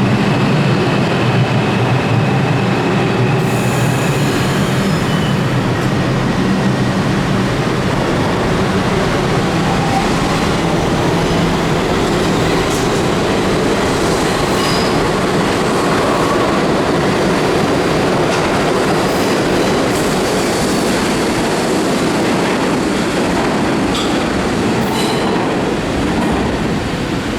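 New York City subway train of R62A cars running on the track with a loud, steady rumble. A low motor hum is heard for the first several seconds, and faint high wheel squeals come and go.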